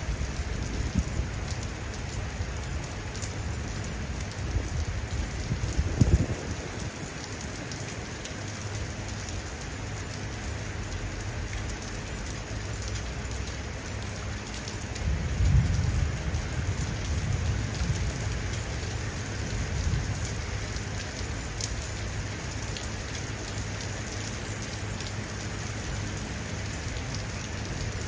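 Steady heavy rain falling, with low rolls of distant thunder about five seconds in and again from about fifteen seconds in.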